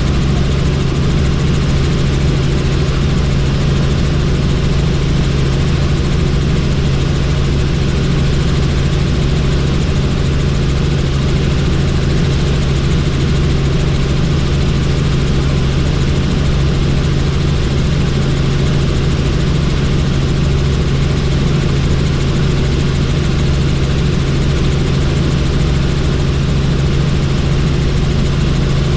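Helicopter in flight, heard from on board: steady, unchanging rotor and engine noise with a strong low hum.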